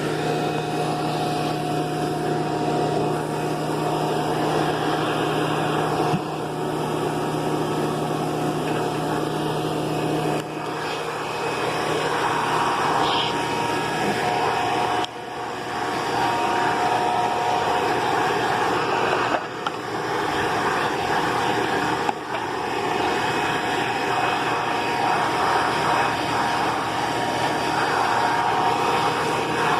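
Upright vacuum cleaner running steadily, its motor giving a steady whine over the rushing air, with the sound dipping briefly a few times as it is pushed and pulled across the floor.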